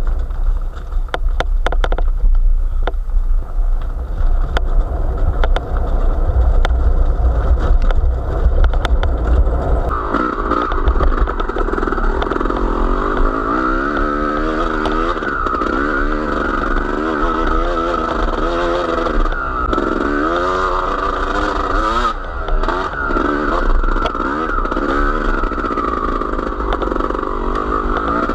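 Engine of a small motor vehicle being ridden over rough ground, its revs rising and falling again and again, with heavy rumble, wind on the microphone, and rattles and knocks in the first part.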